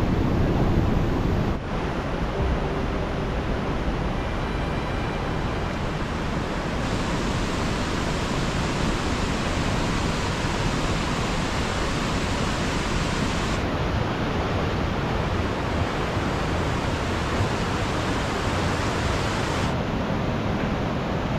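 Steady rush of a mountain stream and its waterfalls in spate, an even wash of water noise. Its tone shifts abruptly several times where one recording gives way to the next.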